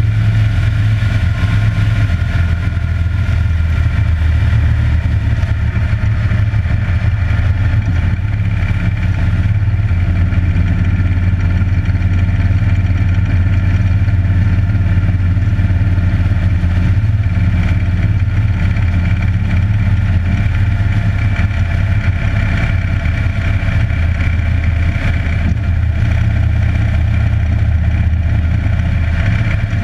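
Harley-Davidson Electra Glide's V-twin engine running steadily while the motorcycle cruises down the road, its pitch holding about level.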